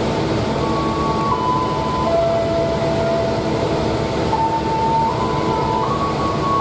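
Steady rumble and hum of a standing train carriage. Over it plays a slow tune of single held notes that step up and down in pitch.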